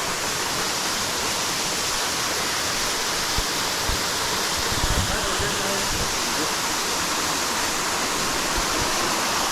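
Water falling and rushing steadily, the loud even sound of a rainforest waterfall or cascading stream close by. A few faint low knocks come a few seconds in.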